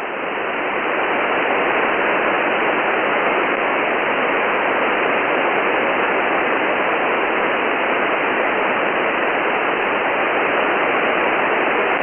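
Shortwave receiver hiss: steady band noise from a 10 m SSB signal path, cut off above about 3 kHz by the receiver's voice filter. It swells up over the first second or so as the receiver's automatic gain recovers after the strong station stops transmitting, then holds steady.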